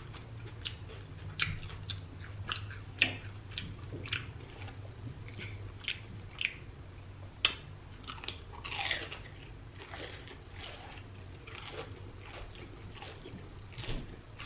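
Close-up crunching and chewing of crunchy deep-fried breaded seafood: the crisp coating cracks between the teeth in short, irregular crunches, with a fresh bite about eight seconds in.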